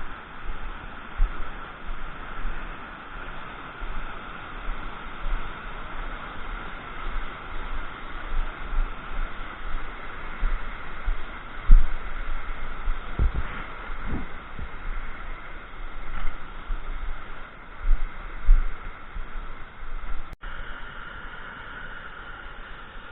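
Steady rush of flowing water, with wind buffeting the microphone in irregular low thumps. There is a brief dropout about twenty seconds in, after which the rush continues slightly quieter.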